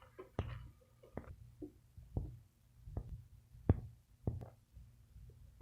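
Plastic dolls and toy pieces being handled, making a dozen or so light, irregular taps and clicks, the loudest a little past the middle.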